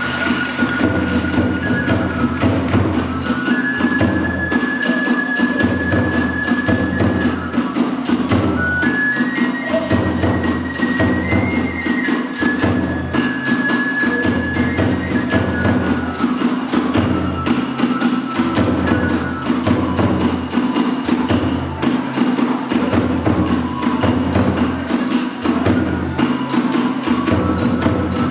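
Hiroshima kagura accompaniment: a transverse bamboo flute playing long held notes that step slowly up and down, over fast, dense strikes of drum and small hand cymbals and a steady low pulse of the big drum.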